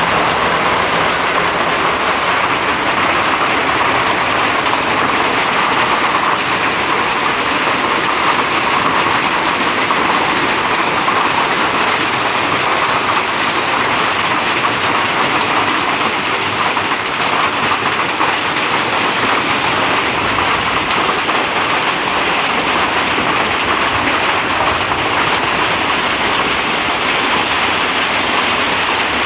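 Rain falling steadily as a dense, even hiss with no breaks.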